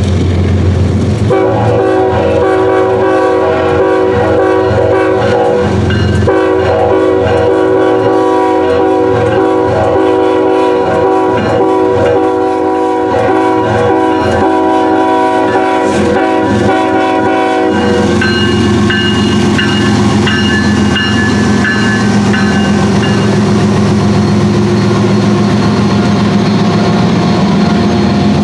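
Freight diesel locomotive horn sounding a steady multi-note chord: a blast of about five seconds, then after a brief break a long blast of about twelve seconds. This plays over the low rumble of the locomotive and train, which carries on after the horn stops.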